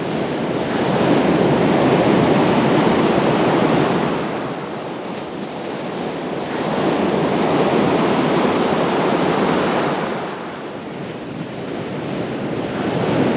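Atlantic surf: waves breaking and washing up a sandy beach, the rush swelling and easing about every five seconds.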